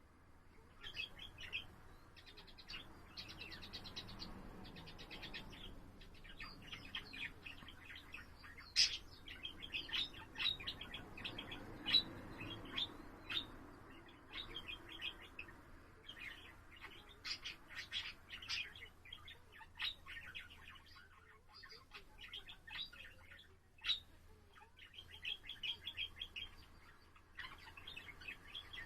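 Budgerigar warbling: long runs of rapid chirps, clicks and chattering trills, broken by short pauses and a few louder single chirps.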